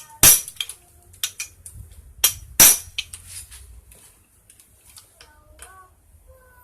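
Sharp metallic knocks and clinks of tools and parts during the teardown of a Yamaha F1ZR two-stroke engine: a few loud strikes, the loudest two about two and a half seconds apart, with lighter clicks between.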